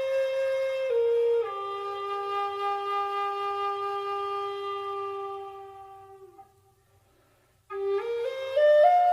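Background music: a slow solo flute melody in long held notes, fading out about six seconds in, then after a brief silence starting again with notes stepping upward.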